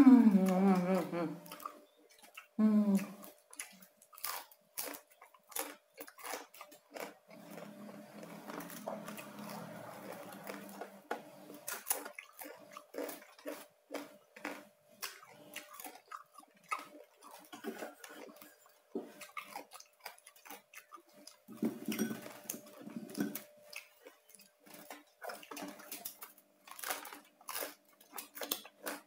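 Close-up chewing of crispy Bangka-style roast pork (saucu), with many short crunches of the crunchy skin throughout. A brief voiced sound comes in the first few seconds, and two longer closed-mouth hums come about a third and three quarters of the way in.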